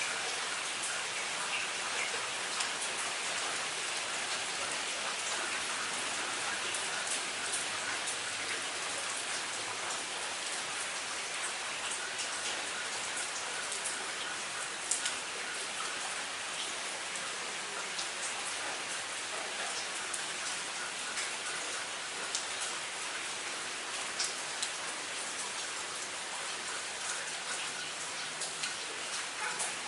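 Moderate rain falling steadily, with many distinct drop impacts ticking sharply on a hard surface over the even hiss.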